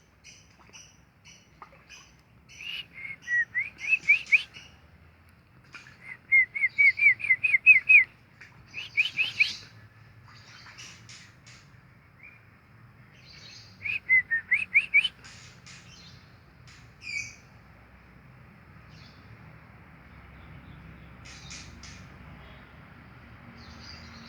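Birds calling, lovebirds among them: four bursts of quick rising chirps, each a run of about four to eight notes, with scattered sharp, high calls in between.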